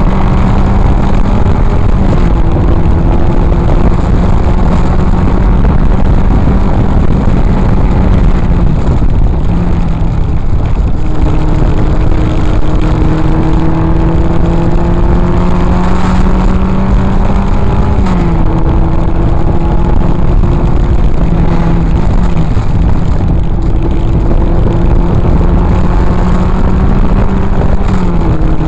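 Triumph TR4A's four-cylinder engine running hard at racing speed, heard from inside the open cockpit. The pitch climbs steadily and drops abruptly several times as gears change, over a dense rush of wind and road noise.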